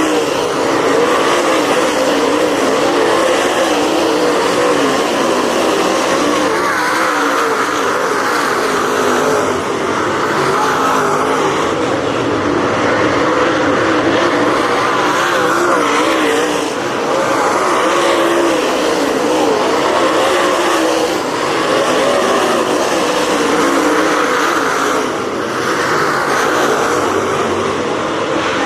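Dirt-track race car engine running hard at racing speed, its pitch wavering and swelling and easing every few seconds as the throttle comes on and off.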